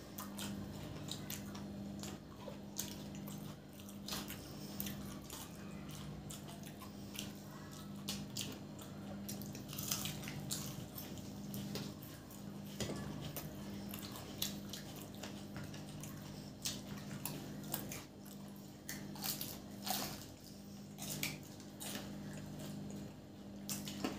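Close-up eating sounds: fried potato samosas being bitten and chewed, with many short crackles of crisp pastry and wet squishes of tamarind chutney, over a faint steady low hum.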